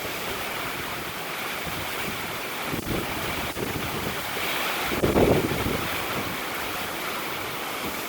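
Strong gusty wind rushing steadily, with one gust buffeting the microphone about five seconds in.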